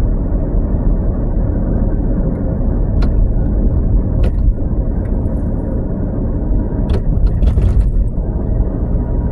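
Steady low rumble of a vehicle driving on the road, with a few short clicks about three, four and seven seconds in.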